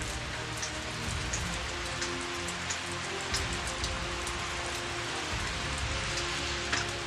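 Heavy rain falling steadily, with scattered sharp drop hits standing out from the hiss.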